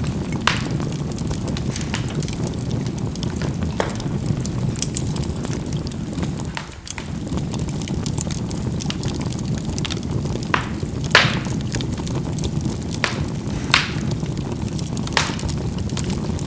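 Charcoal burning in a fireplace: a steady low rumble of the fire with scattered sharp pops and crackles as the charcoal bursts, the loudest about eleven seconds in. The rumble dips briefly about seven seconds in.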